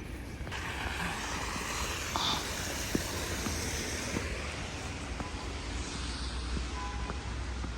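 Steady outdoor rushing noise with a low rumble underneath, starting about half a second in.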